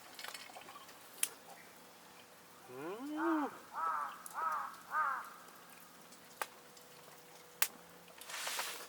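A sheep bleating: one long baa that rises and falls, then breaks into three quick wavering pulses. A few sharp clicks and a short rush of noise near the end sound around it.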